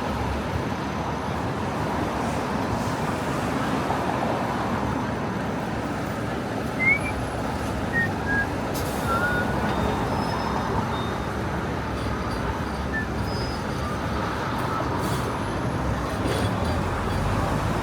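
Steady city street traffic noise, with a few short high chirps about halfway through.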